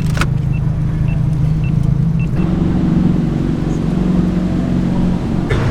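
Car engine running at low speed as the car creeps along, its low hum rising slightly about two seconds in, with a faint regular ticking over it for the first couple of seconds.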